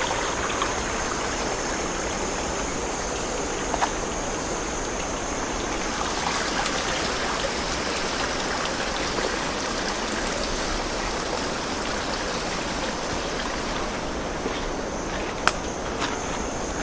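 A forest stream rushing steadily. A thin, high, steady tone sits above it for the first few seconds and comes back near the end, and there are a few sharp clicks.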